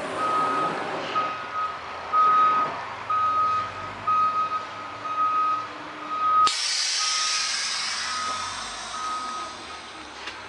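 School bus warning beeper sounding a steady repeating beep, about one a second. About six and a half seconds in, a sudden loud hiss of air breaks in and slowly fades as the 2015 Blue Bird Vision's air is turned back on after the emergency release, working the air-operated entrance door. The beeping carries on through the hiss.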